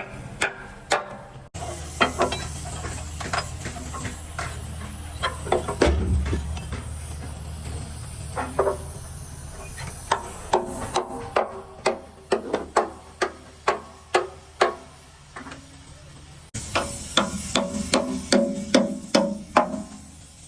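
Repeated hammer blows on metal, each with a short ringing tone, coming faster in the second half at about two to three a second, over a low steady hum.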